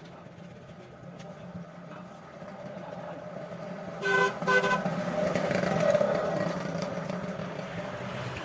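A vehicle horn beeps twice in quick succession about four seconds in, then a passing vehicle's engine swells and fades.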